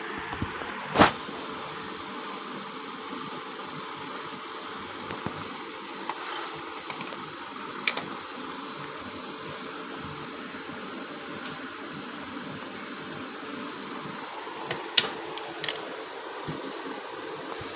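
Steady whooshing noise with a few sharp clicks or knocks, the loudest about a second in and another near the end.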